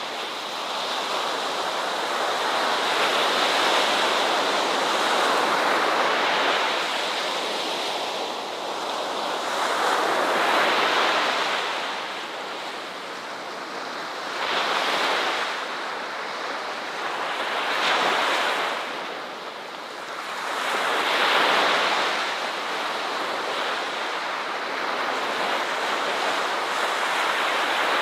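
Ocean waves breaking and washing on a shore, the surf noise swelling and falling away every few seconds.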